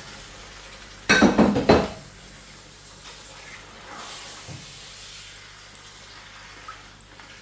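A short burst of clattering from a cooking pot and utensils, about a second in, over faint sizzling of food frying in oil.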